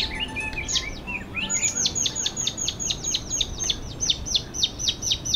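Birdsong: a few scattered chirps, then from about a second and a half in one bird repeats a high, sharply falling note about five times a second.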